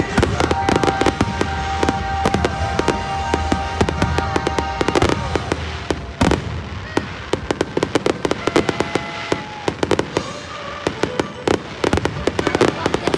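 Aerial fireworks shells bursting in rapid succession, a dense run of bangs and crackles, with music playing over them.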